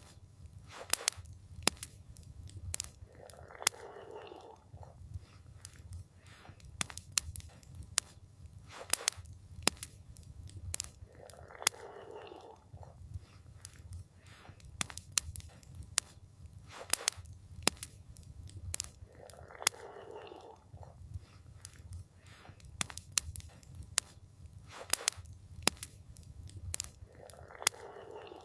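Campfire crackling, with frequent sharp pops and snaps over a steady low rumble of the burning fire. A brief muffled swell comes back about every eight seconds.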